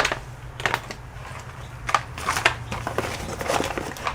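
Hands working on the laptop at a repair bench: a series of sharp clicks and crinkles, about six in four seconds, over a low steady hum.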